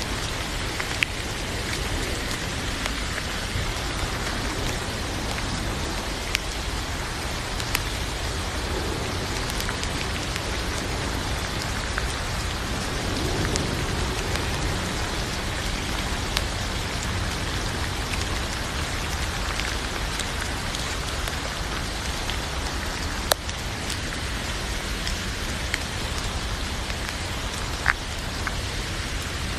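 Steady rain falling, with a few sharper single drip ticks scattered through it.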